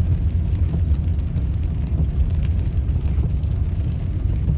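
Steady low rumble of a car being driven, heard from inside the cabin: engine and tyre noise with no distinct knocks or changes.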